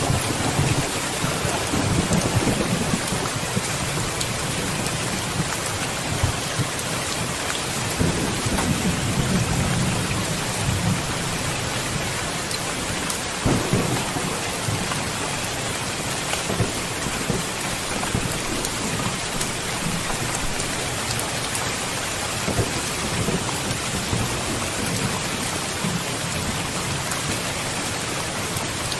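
Steady heavy rain on surfaces with thunder rumbling in slow swells, rising and fading several times, and a sharper thunderclap about halfway through.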